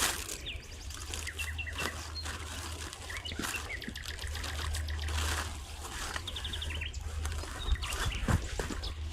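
Small forest birds chirping in short, high, repeated calls, over a background of soft swishing noise and a low rumble.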